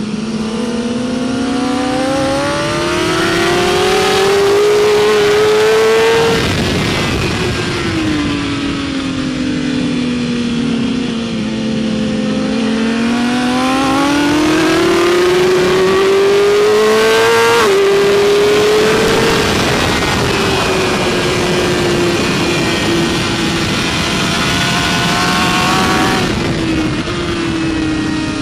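BMW S1000RR inline-four engine heard on board at racing speed, with wind rushing past. The engine pitch climbs slowly over several seconds, drops sharply about six seconds in, climbs again to a peak near eighteen seconds, then eases off and falls.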